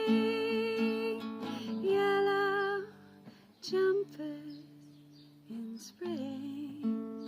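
Acoustic guitar strumming with a woman's voice singing long wordless held notes with vibrato, in short phrases with a dip in the middle.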